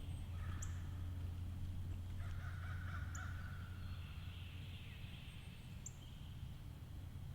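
Woodland bird sounds: crows cawing at a distance, and a small bird giving a short high chirp every two to three seconds, over a steady low hum.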